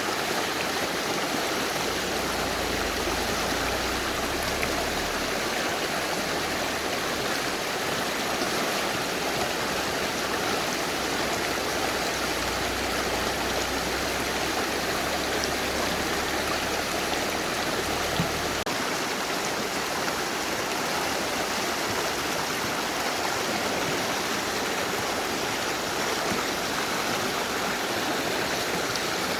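Mountain river rushing steadily over rocks, a continuous dense water noise. A low rumble sits under it and stops about two-thirds of the way through.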